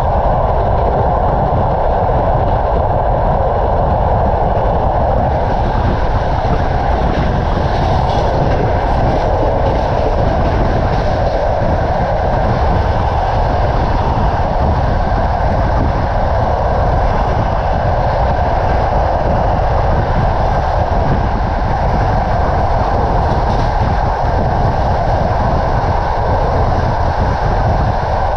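Passenger train carriage running at speed, heard from its window: a steady, loud rumble and rush of the wheels on the rails and the moving air.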